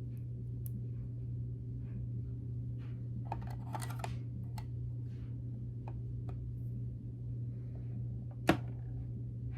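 Small clicks and plastic crinkling from handling and opening tiny plastic packaging, with a crinkly patch a few seconds in and one sharp click near the end, over a steady low hum.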